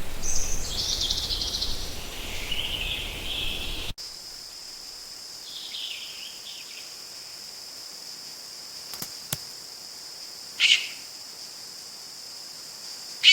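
Harsh, raspy bird calls for about four seconds. After a sudden cut comes a steady, high insect drone, with a few short bird calls and a couple of faint clicks over it.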